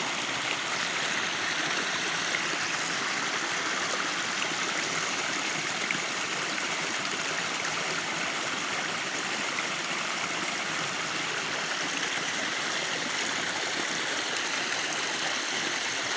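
A small spring-fed mountain stream running steadily, a continuous rush of flowing water.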